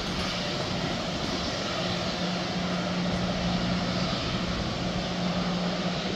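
Rear tank cars of a CSX manifest freight train rolling slowly away, heard as a steady rushing drone with a low hum underneath and no distinct wheel clicks.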